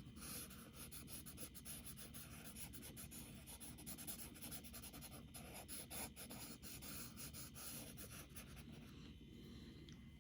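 Charcoal scratching across drawing paper in faint, rapid back-and-forth shading strokes.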